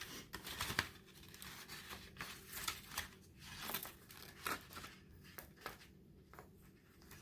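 Faint, irregular rustling and crinkling of a homemade kite and its string being handled as the string is tied on.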